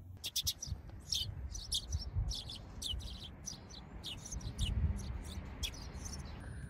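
Small birds chirping in quick, irregular short notes over a low rumbling background noise.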